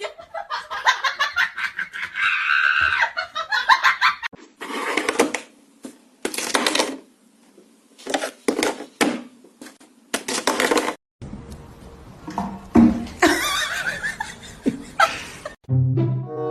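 People laughing in repeated short bursts, cut abruptly between several short clips.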